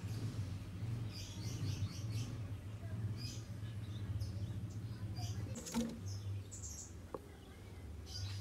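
Birds chirping: many short, high chirps and twitters in scattered bursts, over a low steady hum, with one sharp click a little before six seconds in.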